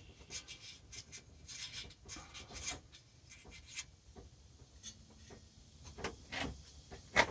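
Hand tools working rusted nuts off bolts: irregular short scraping and rubbing strokes of metal with light clicks, and a sharper clack near the end. The nuts turn off easily, having been soaked with WD-40 while hot.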